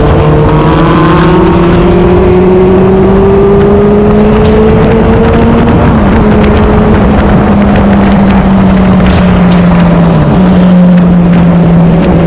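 Sport motorcycle engine running hard at speed, its note climbing slowly, with two short dips about six and ten seconds in as it shifts up a gear.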